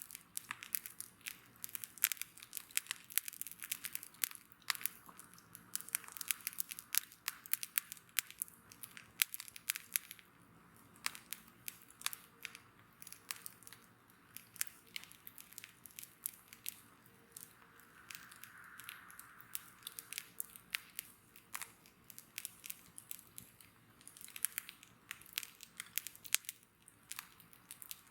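Wood bonfire crackling, with many irregular sharp pops and snaps, thickest at the start and near the end and sparser in the middle. A soft hiss swells briefly about two-thirds of the way through.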